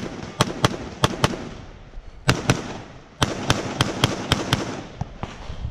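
Gunshots in a fast string, many fired as quick doubles, from a competitor shooting a multigun match stage.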